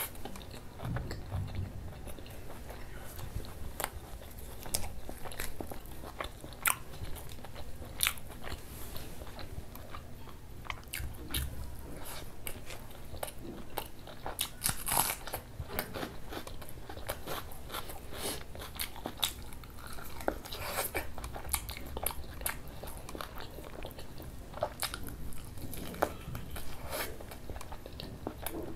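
Close-up eating by hand: chewing and biting on dal puri wrapped around mutton curry, with wet smacking and crunching and many sharp, irregular mouth clicks.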